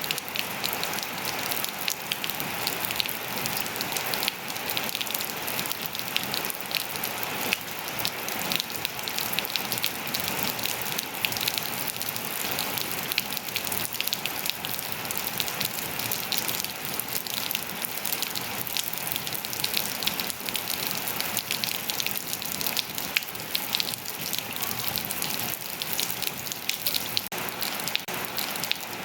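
Steady rain falling on surfaces, an even hiss full of dense, sharp individual drop patters.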